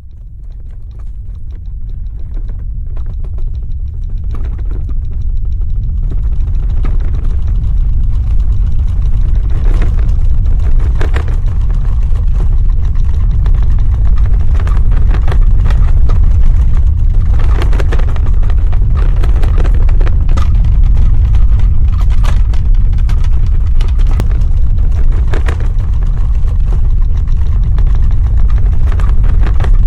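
Earthquake rumble: a deep, continuous ground rumble that swells up from silence over the first several seconds and then holds loud and steady, with scattered short cracks and rattles over it.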